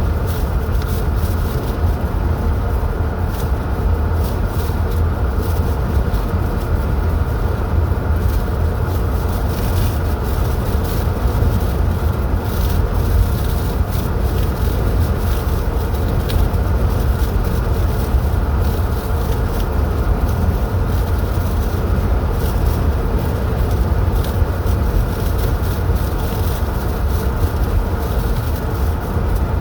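A car driving at a steady pace: constant low rumble of engine and tyres on the road, with no changes in pitch or level.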